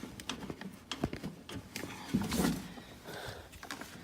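Scattered light clicks and knocks of a car door's latch linkage rod being worked into place inside the door, with a longer rattle about two and a half seconds in.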